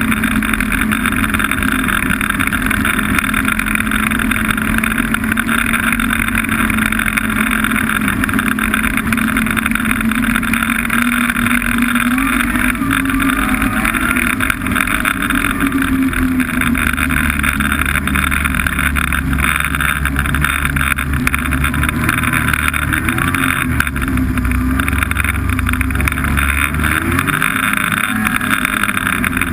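Snowmobile engine running steadily under way, its pitch rising and wavering partway through, with a deeper rumble added in the second half.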